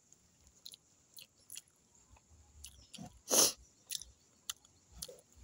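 A person chewing a mouthful of sarapatel, with quiet, irregular wet mouth clicks and smacks. One louder breathy sound comes about three seconds in.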